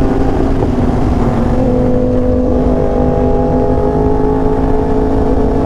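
Sport motorcycle engine running at a steady cruise, its pitch dipping slightly about a second and a half in and then holding, over heavy wind rumble on the helmet microphone.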